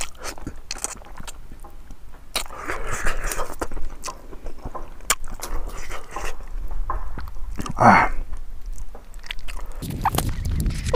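Close-miked chewing, biting and lip-smacking as a man eats pig trotters and rice by hand, with many small wet clicks of the mouth. A louder short mouth sound comes about eight seconds in.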